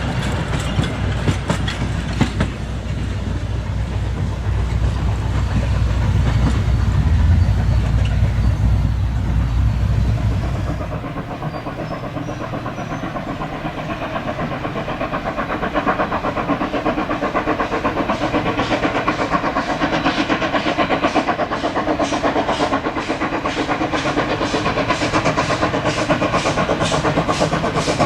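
Steam locomotive C17 974 and its train running. First comes a heavy low rumble that swells and then cuts off abruptly about eleven seconds in. After that the locomotive's exhaust beats come in a steady rhythm of about two a second.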